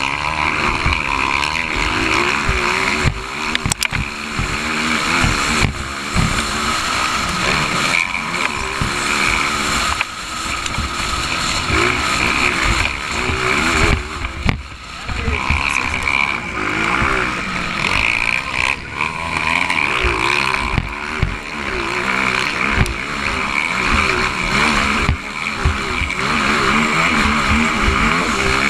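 Motocross bike engine revving up and down over and over as it runs, continuous throughout.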